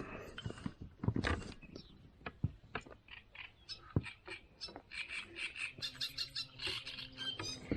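Irregular clicks and knocks of a small pike being handled and unhooked from a wobbler, with small birds chirping.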